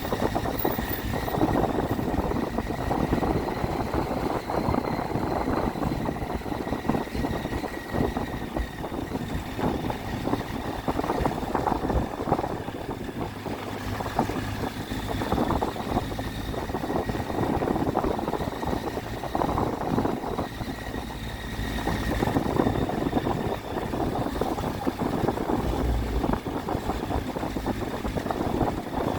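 Triumph Tiger 800's three-cylinder engine running as the motorcycle is ridden, heard continuously with its level swelling and dipping slightly.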